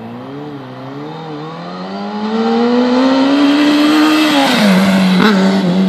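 2006 Kawasaki Ninja 636's inline-four engine through a Yoshimura RS-5 exhaust, revved with the throttle held. The revs climb steadily for about four seconds, then fall off quickly and hold steady at a lower speed.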